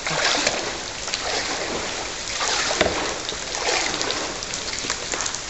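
Light rain falling on still lagoon water, an even hiss with scattered small splashes, mixed with kayak paddles dipping and splashing now and then.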